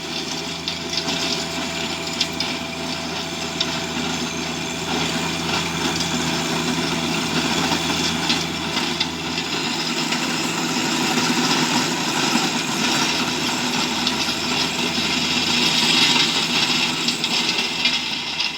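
Tractor engine running steadily as it tills hard gumbo clay soil.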